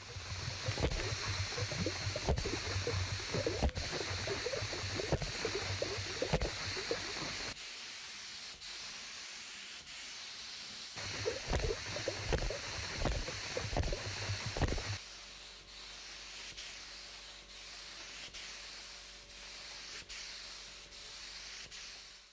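Sanding: rough rubbing strokes with uneven knocks, dropping to a steadier, quieter hiss about halfway through.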